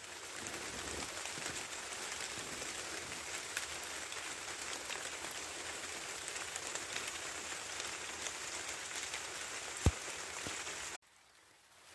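Steady rain falling on a hard surface, a dense patter of small drop ticks. A single louder knock comes near the end, and the rain sound drops away suddenly just after it.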